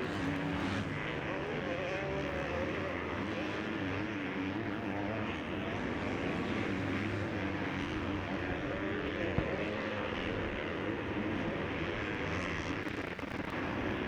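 Motocross bike engines racing on track, their pitch rising and falling as the riders rev through the gears, with one sharp click a little after halfway.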